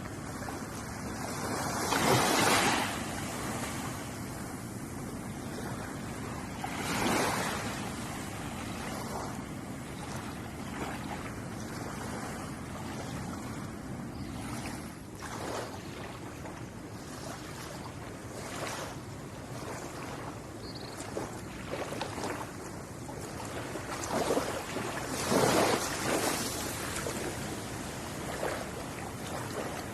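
Ocean waves lapping against the shore: a steady wash of surf, with a wave breaking louder about two seconds in, another around seven seconds, and a larger surge near the end.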